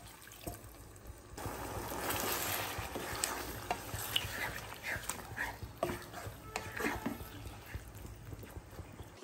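Marinated chicken and tomato masala sizzling in a nonstick kadai over high flame, stirred with a spatula in repeated scraping strokes. The sizzle picks up about a second in.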